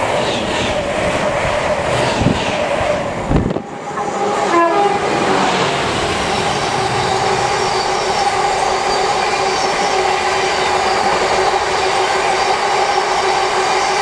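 A Royal Mail Class 325 electric multiple unit passes at speed, its sound breaking off about three and a half seconds in with a low thud. A long freight train of open box wagons follows, its wheels clattering over the rails with a steady high hum. There is a brief wavering tone about four and a half seconds in.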